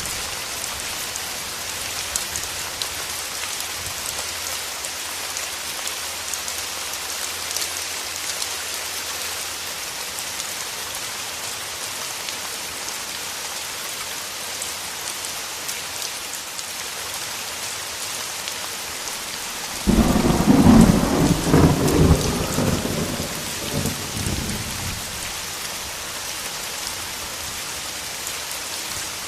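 Steady rain hiss. About two-thirds of the way through, a sudden crack of thunder breaks in and rumbles for a few seconds before fading back under the rain.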